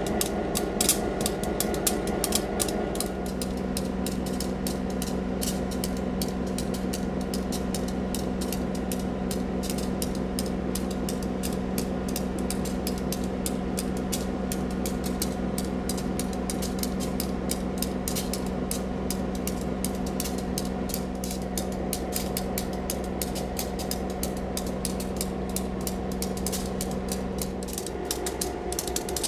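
Diesel locomotive (ex-Duluth, Missabe & Iron Range SD-M, a rebuilt EMD SD9) running with a steady clattering rattle over its engine note. The engine note drops to a lower pitch about three seconds in and rises again near the end.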